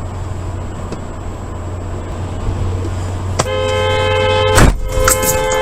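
Steady road and engine noise, then a car horn sounds a long blast a little over three seconds in. Near the end a loud crash impact breaks into it, and the horn keeps going afterward.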